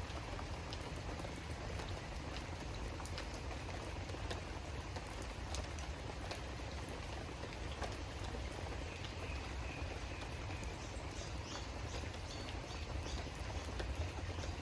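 Steady rain falling, with many separate drops pattering, over a steady low rumble.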